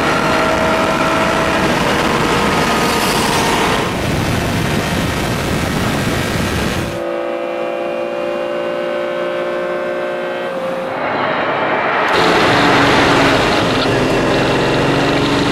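Engines heard from inside the cabins of a Lamborghini Countach 25th Anniversary with its V12 and a Ferrari 512TR with its flat-12, both running hard at speed. The sound cuts from one car to the other about 7 seconds in and cuts back about 12 seconds in.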